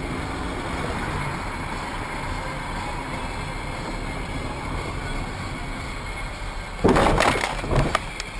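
Steady driving noise of a car heard from inside the cabin. About seven seconds in comes a loud, sudden burst of noise lasting about a second, then a second, shorter one just after.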